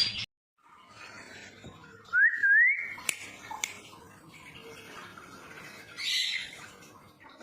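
One short, loud whistle rising in pitch in two steps, followed by two sharp clicks.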